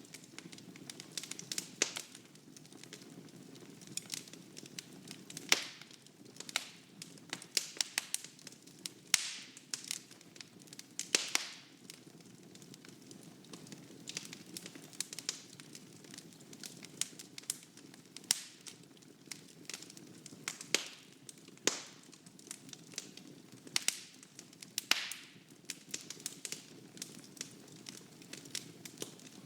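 Wood fire burning in a fireplace: a steady low rumble of flame with frequent irregular crackles and sharp pops from the burning logs.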